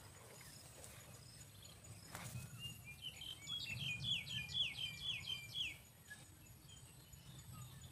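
A bird calling: a run of about ten quick down-slurred chirps, some three a second, over a faint steady background hum.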